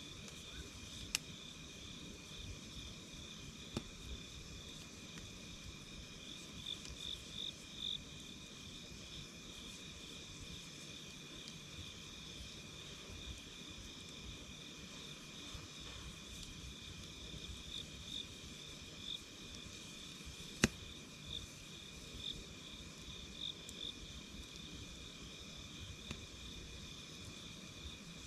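A chorus of night insects chirping steadily, one high pulsing trill over a steadier high tone, over a wood campfire crackling. Scattered sharp pops sound from the fire, the loudest a little past two-thirds of the way through.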